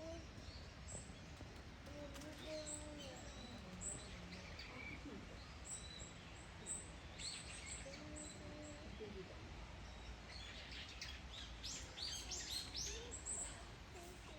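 Bush dogs giving short, high-pitched squeaking calls, scattered at first and coming in a quick run near the end.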